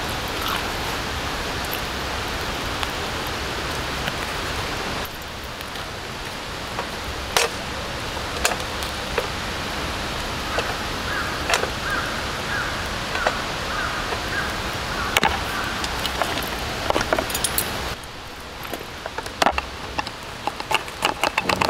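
Wood campfire crackling: a steady hiss with scattered sharp pops and snaps, which come more often near the end. The background hiss drops in level about five seconds in and again near the end.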